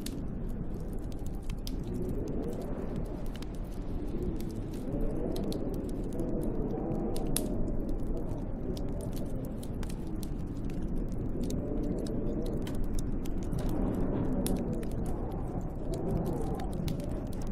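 Wood fire crackling with frequent sharp pops and snaps, over a storm wind that howls in gusts, its pitch rising and falling.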